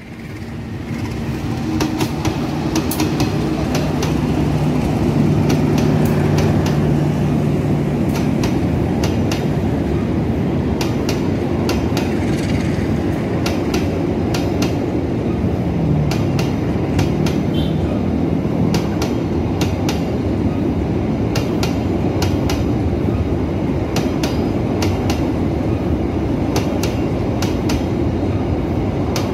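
KAI long-distance passenger train running past close by, its wheels clacking over the rail joints in quick clusters over a steady rumble. It swells up over the first few seconds, with a steady hum at first.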